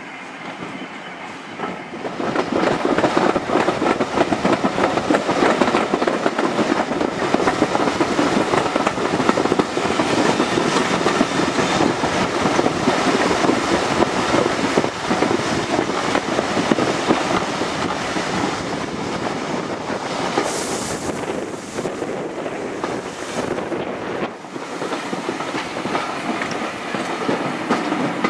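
Heritage passenger train running along the line, heard from a carriage window: a steady rumble and clatter of the carriage wheels on the rails, getting louder about two seconds in.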